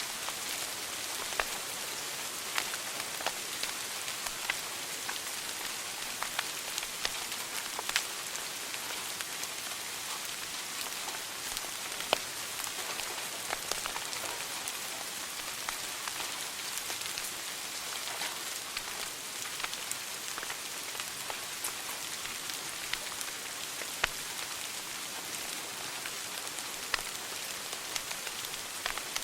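Wood fire burning in a fireplace, crackling: a steady hiss with irregular sharp pops and snaps, a few much louder than the rest.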